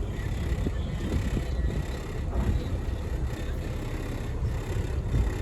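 Twin Caterpillar 3116 diesel engines of a Tollycraft 45 motor yacht running as the boat manoeuvres, a steady low rumble.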